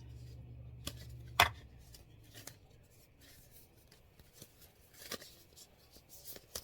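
A deck of tarot cards being handled and shuffled: faint rustling and ticking of the cards, with a sharp snap about a second and a half in, where a low hum cuts off.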